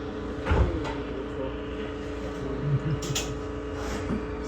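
Inside a train car of the Ichibata Electric Railway: a steady hum with a low rumble underneath, a clunk about half a second in, and a short hiss about three seconds in.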